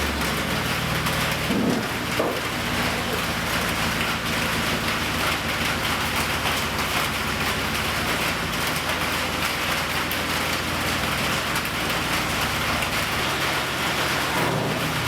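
MIG welder laying a long continuous bead on steel, a steady dense crackle over a low electrical hum.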